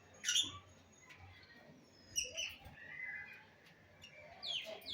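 Rosy-faced lovebirds chirping: a few short, sharp calls spaced out, then a quick run of falling calls near the end.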